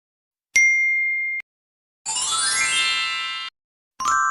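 Three separate ding and chime sound effects with short silences between them. A single clear ding about half a second in, a bright shimmering chime of many tones around two seconds in, and a lower bell-like ding near the end that fades away.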